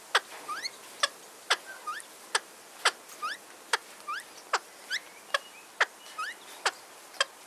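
Aviary bird calling over and over: a sharp call falling steeply in pitch about twice a second, with fainter short rising chirps between.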